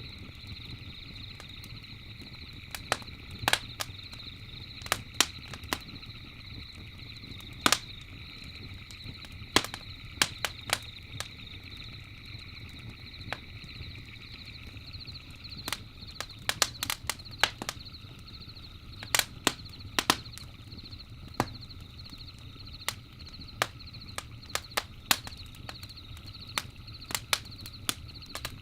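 Campfire crackling: wood popping and snapping at irregular intervals, a few pops a second, with thicker clusters in the second half. Under it runs a low steady rumble, with a steady high-pitched trill in the background.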